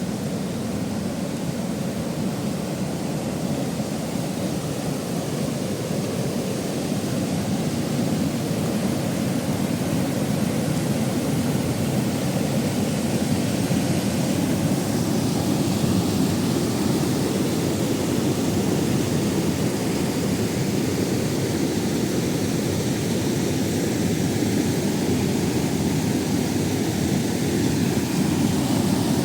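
A waterfall's steady rush of falling water, a dense deep noise without breaks, growing a little louder after the first several seconds.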